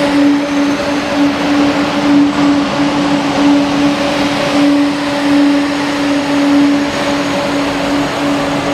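A train running with a steady, unchanging hum over a loud rushing noise.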